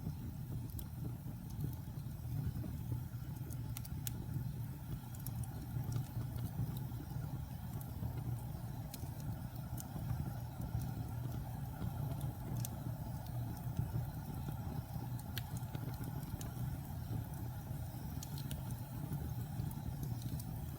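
Wood fire burning in a fireplace: a steady low rumble of flames with scattered sharp crackles and snaps from the burning logs every second or two.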